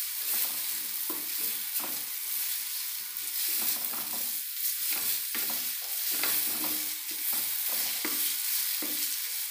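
Grated sweet potato frying in ghee in an iron kadhai, with a steady sizzle, while a wooden spatula stirs and scrapes it against the pan in quick, irregular strokes.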